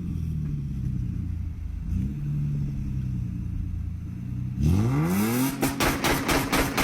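Car engine idling with a steady low hum, then revved hard about four and a half seconds in, the pitch rising sharply, followed by a rapid run of sharp cracks.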